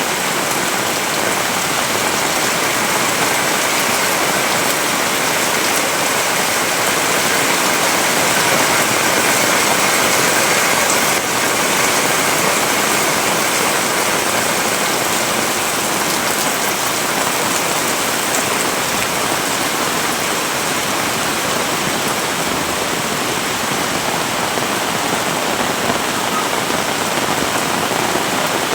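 Heavy rain pouring steadily, a dense even hiss of falling water that swells slightly about a third of the way through.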